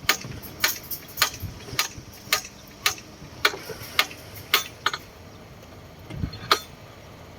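Regular sharp clicks, about two a second, that stop about five seconds in; a dull thump and one more click follow about a second later.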